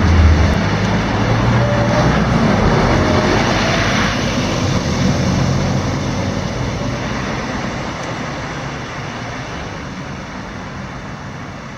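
Scania K230UB diesel city bus running, engine and road noise steady at first and then gradually getting quieter through the second half.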